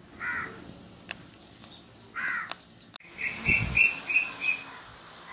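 Birds calling: two short calls about two seconds apart, then, a second later, a quick run of about six high chirps.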